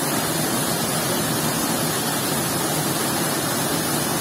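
A waterfall, its water rushing in a loud, steady roar.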